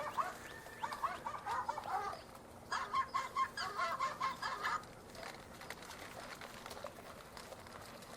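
Short, quickly repeated animal calls in two bursts, one in the first two seconds and another from about three to five seconds in, then only faint background.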